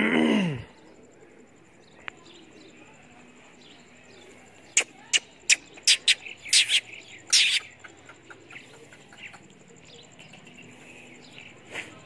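Small birds chirping, with a run of loud, sharp chirps about five to eight seconds in and fainter scattered chirps through the rest. A brief falling voice-like call comes at the very start.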